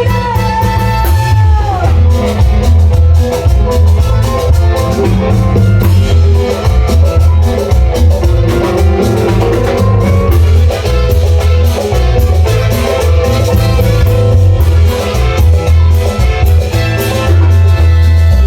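Live Latin dance band playing loudly, with a heavy pounding bass, drums and melodic instrument lines; a held note slides down in pitch in the first two seconds.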